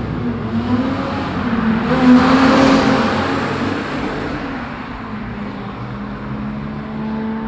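Car with a loud aftermarket exhaust driving past with its engine pitch wavering, loudest about two seconds in and then fading away, with a steadier engine note running in the last few seconds.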